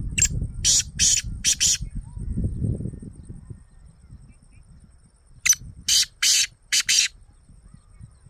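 A caged bird calling in two bursts of four or five short, harsh, rasping notes, the first right at the start and the second about five and a half seconds in. A low rumble fills the first three seconds, and a faint steady high whine runs underneath.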